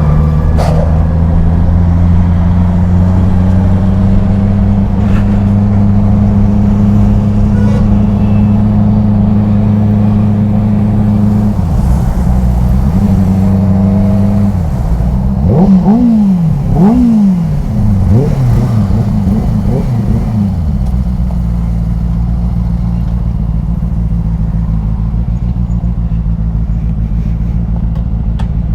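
Benelli 600i inline-four motorcycle engine running at a steady pitch, then revved up and down in several quick sweeps about halfway through. It then settles back to a steady, slightly quieter run.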